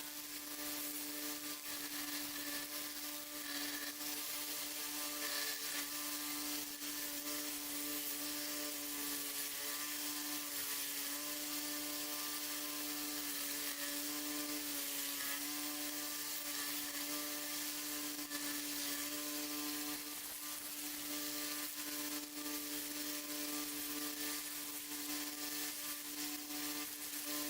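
Belt sander motor running steadily with a hum, and the hiss of the abrasive belt grinding metal and bone on a pocket knife. The motor's pitch sags slightly now and then as the work is pressed against the belt.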